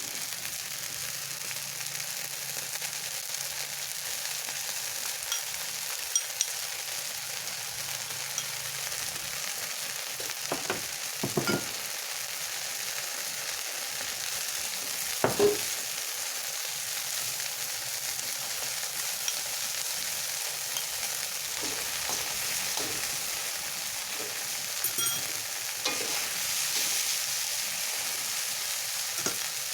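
Food sizzling and frying in a pan as a steady crackling hiss, with a few short knocks of a utensil against the pan.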